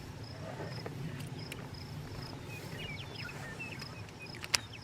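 Insects chirping steadily, a high pulsing chirp about two or three times a second over a low outdoor rumble. Light clicks and one sharp click near the end come from handling the tackle box and its packs.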